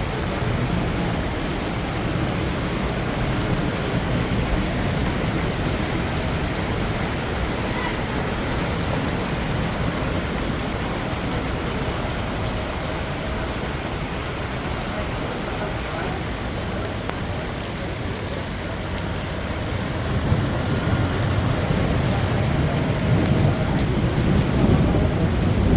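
Heavy rain pouring steadily in a thunderstorm, a dense even hiss of rain on surfaces. A low rumble swells in the last few seconds.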